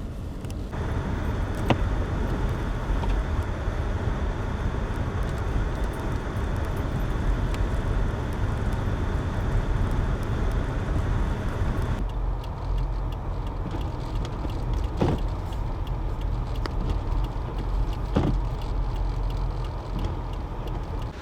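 A car driving on a snowy highway: steady road and engine noise with wind. The noise changes abruptly about a second in and again about twelve seconds in, and a few faint knocks come through.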